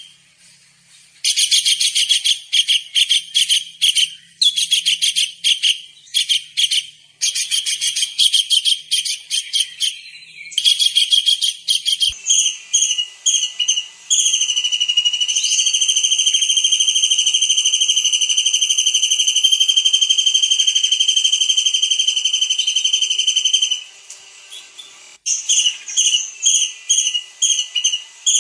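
Tengkek udang (kingfisher) calling: rapid, high trilling chatters come in bursts for about twelve seconds, then one long steady high whistle lasts about ten seconds, and quick short notes return near the end.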